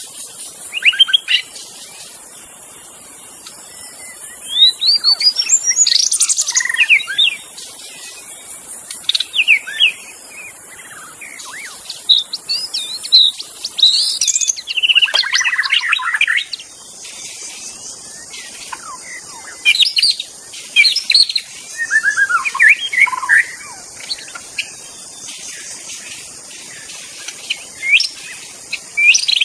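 White-rumped shama (murai batu) singing: a long run of varied, rich whistled phrases, each a few quick notes sliding up and down, with short pauses between. A steady high hiss runs underneath.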